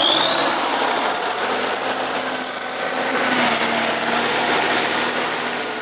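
MAZ-537 heavy military truck's V12 diesel engine running steadily.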